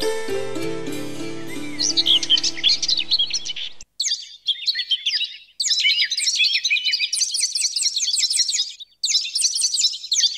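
Birds chirping in rapid, repeated high notes. Soft background music plays under them for the first few seconds and stops suddenly about four seconds in. The chirping then goes on alone in several bursts with brief breaks between them.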